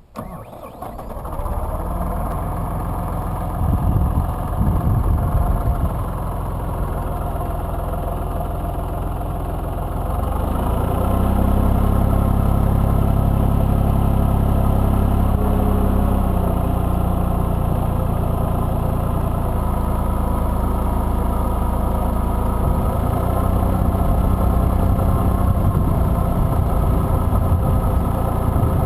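IMT 2050 tractor's diesel engine starting up and then running steadily. The engine speeds up briefly about four seconds in, then rises to a higher, steady speed about ten seconds in and holds there.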